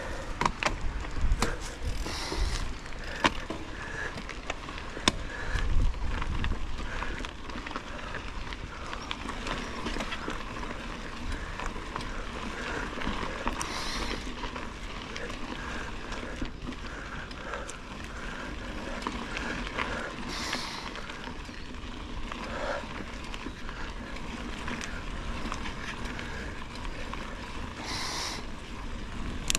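Bicycle riding along a forest trail: tyres rolling with the chain and frame rattling over the bumps. There are heavier low thumps now and then, strongest in the first few seconds and about six seconds in.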